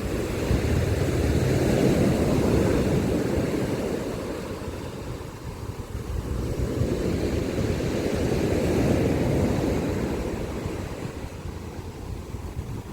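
Sea waves surging onto the shore: a low rushing rumble that swells twice, about seven seconds apart.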